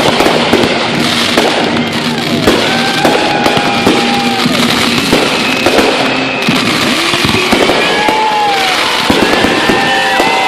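Dense barrage of fireworks: rapid bangs and crackling overlapping with many whistling shells, their whistles holding a pitch and then bending down.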